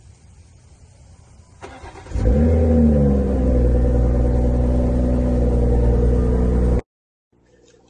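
BMW M340i's 3.0-litre turbocharged inline-six cold-starting: a brief crank about a second and a half in, then the engine catches with a rev flare that falls back to a loud, steady fast idle. After a sudden break near the end, a much quieter idle follows.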